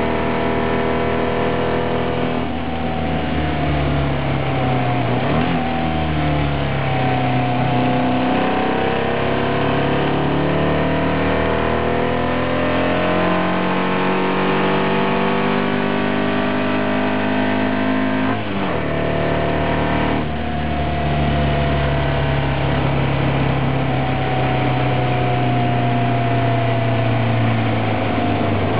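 VW-engined race car at full throttle, heard from inside the cockpit, its engine note climbing and falling as it accelerates and brakes for corners. There are brief dips for gear changes about two seconds in, and twice more past the middle.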